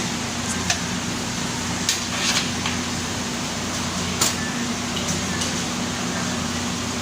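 A handful of sharp clicks and knocks, about five spread over the stretch, as cables and connectors are handled and pulled from a desktop computer system unit, over a steady background hum.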